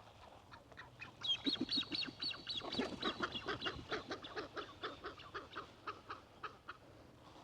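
A flock of waterfowl calling in a rapid run of repeated notes, high whistles over lower honks. The calls start about a second in, are loudest early on, and trail off near the end.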